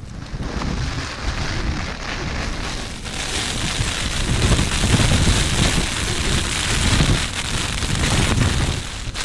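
Heavy rain and gusting wind beating on a tent's flysheet, heard from inside the tent; it grows louder and denser about three seconds in.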